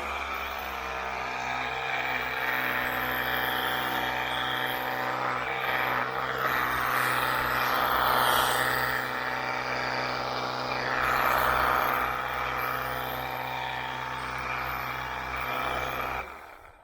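Ryobi EZClean cordless power cleaner running on its low-pressure rinse setting: a steady pump-motor hum under the hiss of water spraying mud off a bicycle. The hiss swells and fades as the spray moves, and the motor cuts off suddenly near the end.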